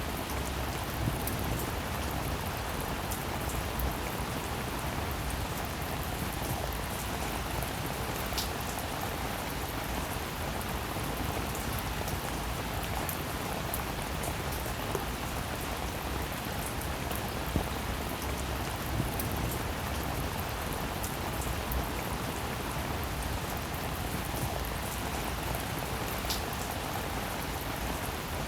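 Rain falling steadily, a dense even hiss of drops with a few louder single drop impacts now and then.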